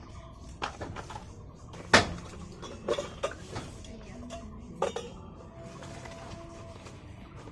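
Metal cookware and utensils clanking and knocking against each other in a scattered series, the loudest clank about two seconds in, with a faint ringing afterwards.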